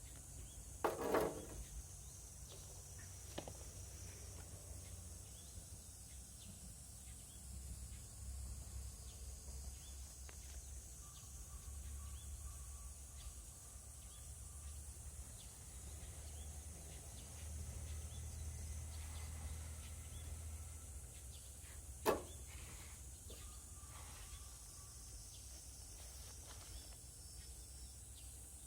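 Quiet outdoor ambience: a steady high insect drone over a low rumble, broken by two short sharp knocks, one about a second in and another about three-quarters of the way through.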